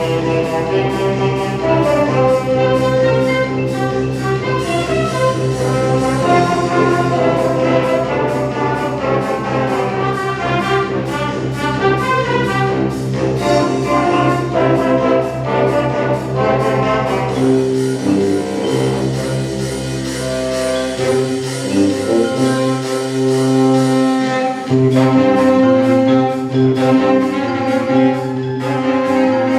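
Wind band playing: sustained brass chords over repeating figures, with a steady ticking percussion pulse of about two beats a second. The low bass notes drop away a little past the middle.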